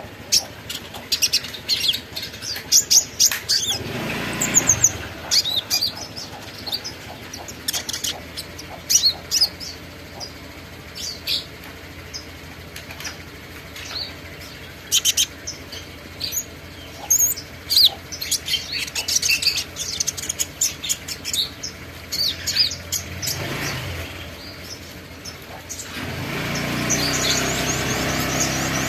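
Small songbird chirping: many short, high chirps, scattered irregularly. A passing whoosh of noise comes a few seconds in and again near the end, and a louder steady background noise sets in shortly before the end.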